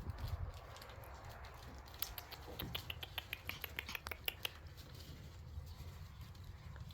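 Shiba Inu puppies' paws and claws pattering and clicking in quick, irregular taps while they play, busiest in the middle.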